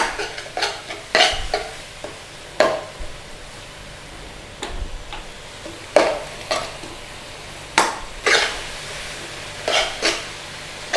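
Finely blended onion sautéing gently in oil in a pan with a soft sizzle, while a utensil stirs it with irregular scrapes and knocks against the pan.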